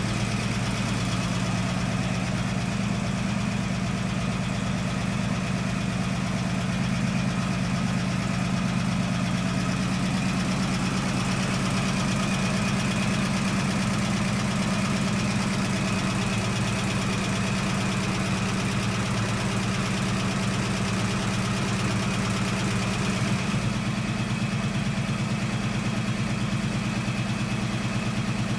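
1969 AMC Javelin's carbureted 290 V8 idling steadily on a cold engine, with a tick that the owner puts down to a hydraulic lifter that still needs to pump up after sitting.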